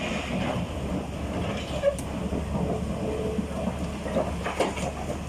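Heavy diesel engine of a tracked excavator running steadily under load while loading stones, with a sharp knock about two seconds in.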